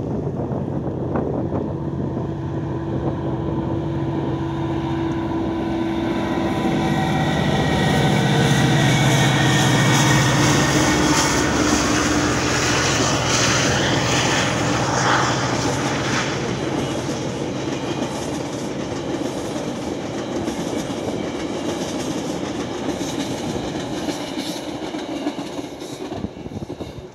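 GO Transit bilevel commuter train passing, a steady rushing run of wheels on rails with clickety-clack and a low drone. It builds to its loudest about a third of the way through, then slowly fades.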